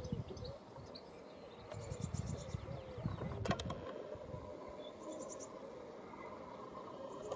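Birds singing outdoors: short high chirps and trills, with a sharp click about three and a half seconds in.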